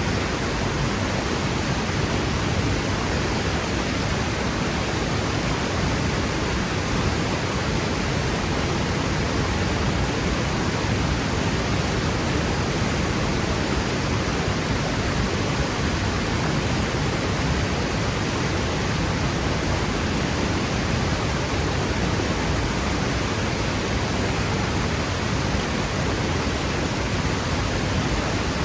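Franklin Falls, a waterfall, pouring and crashing steadily onto rock, a constant even rush of water with no breaks.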